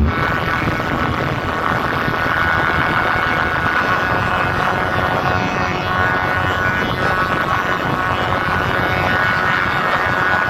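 Loud, steady, distorted roar from a large DJ speaker box setup being tested, overloading the microphone so that no clear beat comes through.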